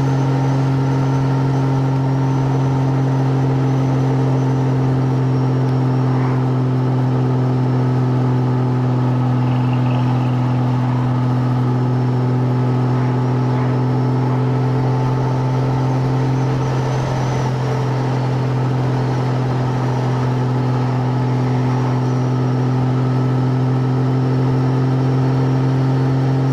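Motorcycle engine running at a steady cruising speed with road and wind noise, its pitch holding constant, easing off slightly for a moment partway through.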